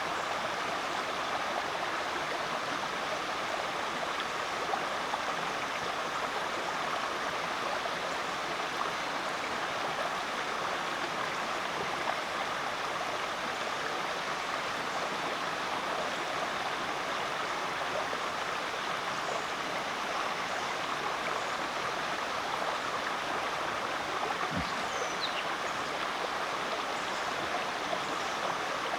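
Rainforest creek flowing steadily over rocks: a continuous rush of running water.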